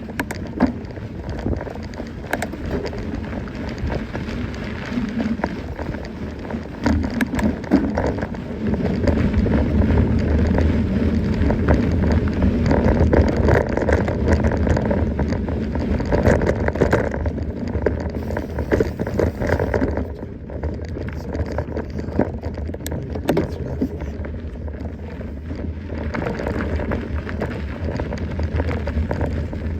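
Mountain bike riding over rough ground: continuous tyre noise on the trail with frequent rattles and knocks from the bike. It gets louder for a stretch in the middle.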